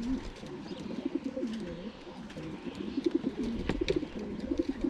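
Racing pigeons cooing in a loft, many low, wavering coos overlapping without a break. A few sharp clicks sound among them, the clearest near the end.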